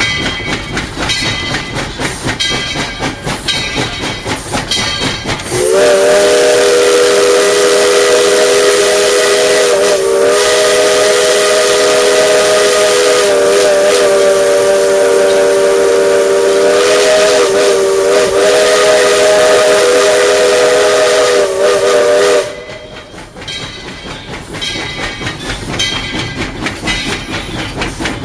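Tweetsie Railroad #12's steam whistle blowing one long blast of about seventeen seconds, a chord of several steady tones, loud from the cab. Before and after it the locomotive rattles and clatters along the track.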